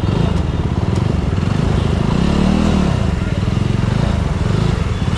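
Superbike engine running at low speed with a rapid, steady beat, briefly revved up and let back down about two and a half seconds in.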